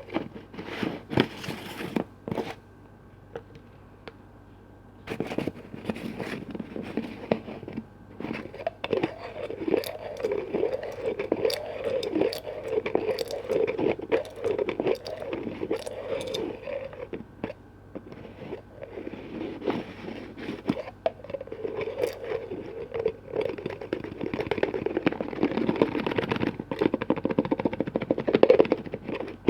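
Close-miked ASMR handling of containers and their lids: sharp taps and clicks, a pause of a couple of seconds, then a long stretch of scratching and rubbing with a wavy, repeating texture.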